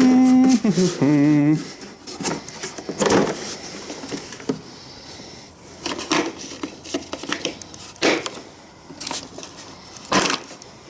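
Metal hand tools and sockets clinking and knocking as a tool kit is handled, in scattered single knocks. A brief voice is heard at the start.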